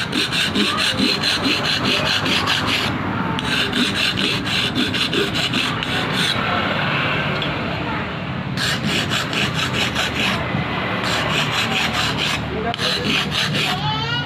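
Hand filing on the metal propeller of a ketinting longtail boat engine: fast back-and-forth rasping strokes, about five a second, in runs of a few seconds with short pauses about three, eight and a half, eleven and twelve and a half seconds in.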